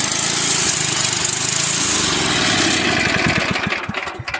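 Tecumseh flathead small engine running steadily, then shut off about three seconds in: its firing strokes space out and fade as it coasts to a stop.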